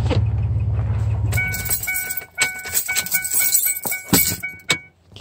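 Truck engine idling with a low rumble that cuts off abruptly about a second and a half in. After it come irregular metallic clanks and clatter with a high ringing: scrap metal being handled and loaded.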